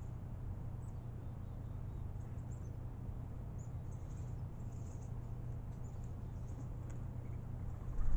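Faint, scattered high squeaky chirps and clicks of European starlings over a steady low hum, with a low thump near the end.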